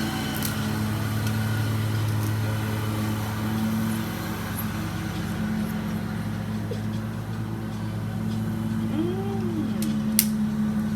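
A steady low mechanical drone, with a short rising-and-falling vocal sound about nine seconds in and a sharp click just before the end.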